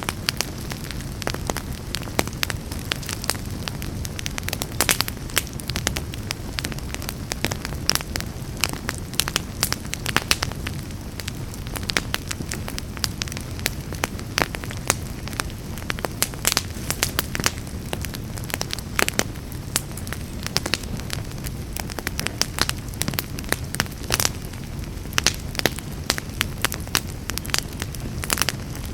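Fire in a fireplace crackling: frequent irregular sharp pops and snaps over a low steady rumble of burning.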